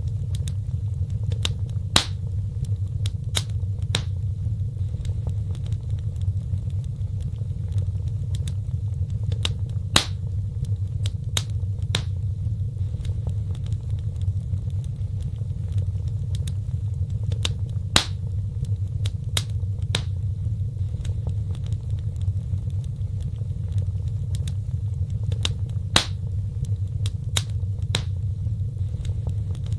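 Fireplace fire burning: a steady low rumble of flames with scattered sharp crackles and pops of the burning wood, the loudest pops coming about every eight seconds.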